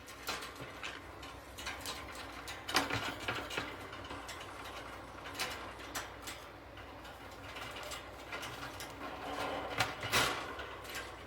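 Metal wire bird cage being handled: irregular clicks, knocks and rattles of cage parts, with the loudest knocks about three seconds in and near the end.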